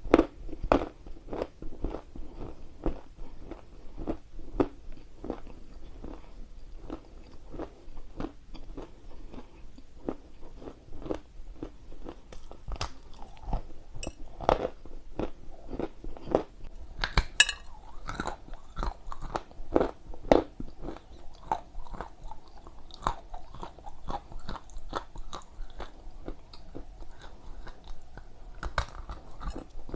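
A person chewing and crunching dry Ural clay close to the microphone: a steady run of crisp crunches, about two a second, with a few louder, crackling bites in the middle.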